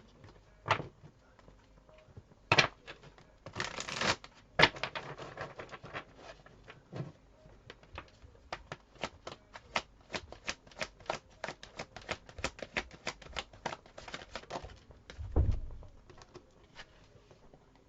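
Tarot cards being shuffled by hand: a few separate card snaps, then a long quick run of clicking cards, and a dull thump near the end.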